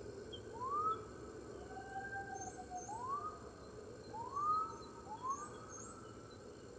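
Several wolves howling together in a chorus: overlapping howls that each swoop quickly upward and then hold, with one longer, lower howl under them, over a steady webcam hiss.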